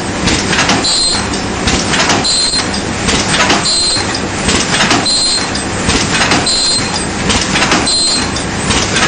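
A cup-forming machine running in steady cycles: continuous mechanical clatter and knocking, with a short high tone that recurs about every second and a half.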